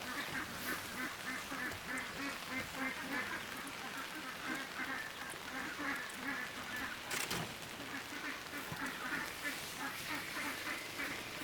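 A flock of domestic ducks quacking in rapid, continuous chatter, many short quacks overlapping.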